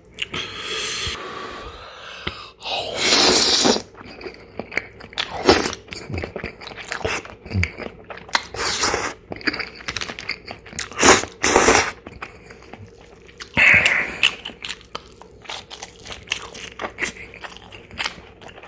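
Close-miked eating: a person biting and chewing crunchy food in irregular crunches, with a few louder strokes scattered through.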